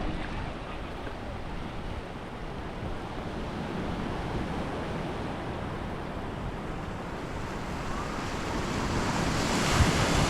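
Ocean surf washing on the shore, a steady rush that swells louder near the end as a wave comes in, with some wind on the microphone.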